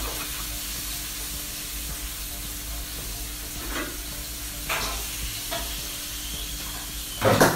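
Lobster frying in oil in a pan on a gas stove, a steady sizzle, with a few faint knocks and a short louder noise near the end.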